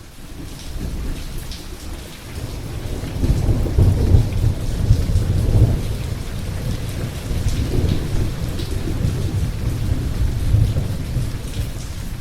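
Rain falling steadily with rolling thunder. The low rumble swells loudest from about three to six seconds in and rises again twice later on.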